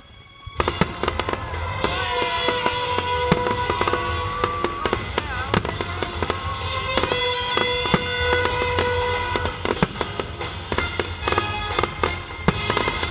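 Fireworks display: many shells and crackers banging and crackling in quick succession over loud music played along with the show. A brief lull at the very start, then the bangs come thick and fast.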